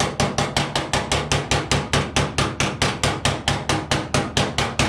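Hammer tapping quickly and evenly on a tack-welded sheet-steel patch panel in a car fender, about six or seven sharp taps a second, to work the patch flush.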